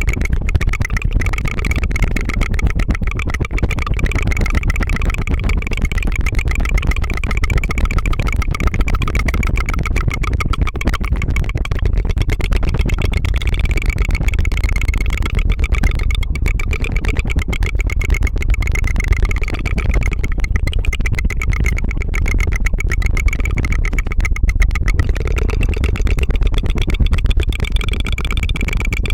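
Rapid tongue fluttering, a trilled 'tu-tu-tu' made close to the microphone, going on steadily without a break as a fast buzzing rattle.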